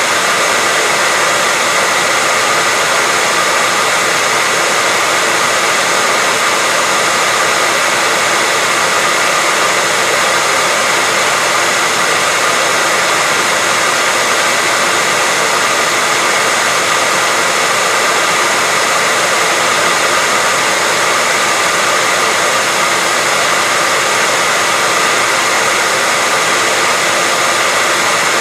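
Electric hair dryer running steadily, a constant airy whoosh with a faint whine from the motor.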